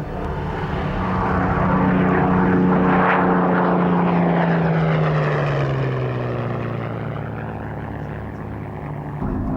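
Hawker Hurricane's Rolls-Royce Merlin V12 piston engine and propeller in a low flypast: the engine note swells as the aircraft approaches, then drops in pitch and fades as it passes. Near the end it cuts abruptly to a steadier engine sound.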